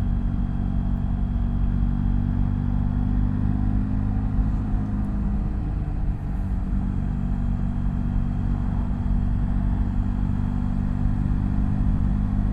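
BMW F800GS motorcycle's parallel-twin engine running at a steady cruise under way, a low engine note holding one pitch throughout.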